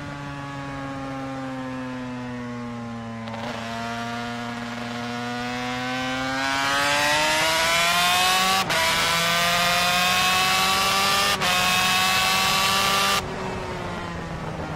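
1985 Honda NSR500's V4 two-stroke racing engine running on a stand. It starts at a low steady speed, climbs to a higher held rpm about six seconds in, and drops sharply back to idle near the end. There are two brief breaks in its note while held up.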